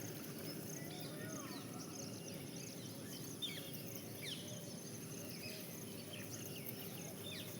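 Parrots chirping: many short, quick calls scattered throughout over a steady background noise and low hum, with one sharp click about three and a half seconds in.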